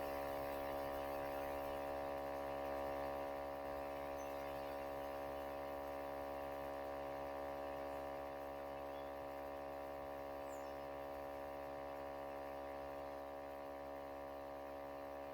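Steady electrical mains hum with a buzz of many evenly spaced overtones, easing slightly in level.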